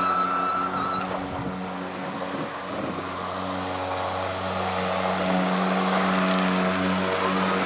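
EGO 56-volt cordless electric lawn mower running while mowing, a steady motor-and-blade hum with a high whine. The whine drops out about a second in and returns near the end; the sound dips for a couple of seconds, then grows louder again.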